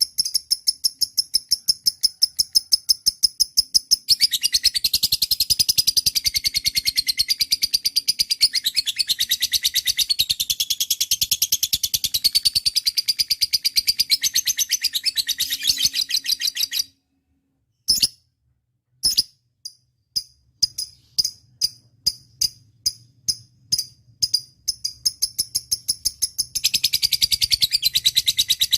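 Lovebird calling: a run of rapid, evenly spaced high chirps gives way to a long, fast, warbling chatter. After a sudden short break, single chirps come spaced apart, and the dense chatter starts again near the end.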